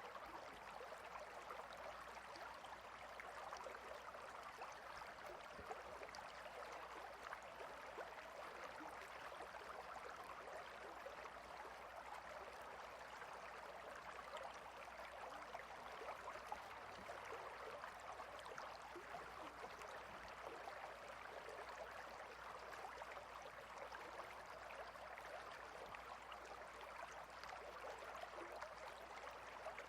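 Clear stream running over and between rocks: a faint, steady babble of flowing water.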